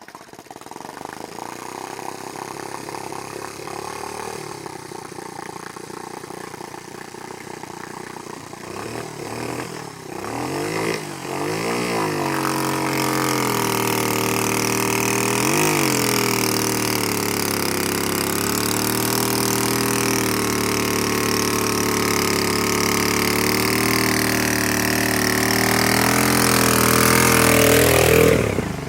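Small off-road engine running again after taking in water: the throttle is blipped a few times about ten and sixteen seconds in, then held at steady higher revs that grow louder until it cuts off suddenly near the end.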